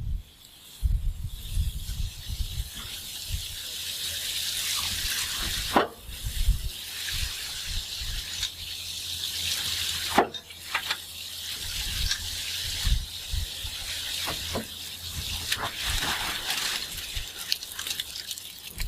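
Steady hiss of running or spraying water, with scattered low thuds and a few sharp clicks; it drops out briefly about six seconds and ten seconds in.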